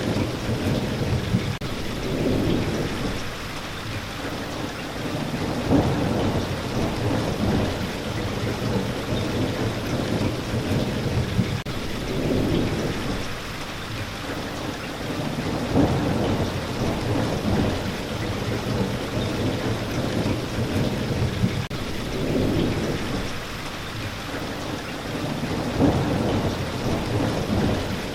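Steady rain with low rumbles of thunder swelling and fading every few seconds.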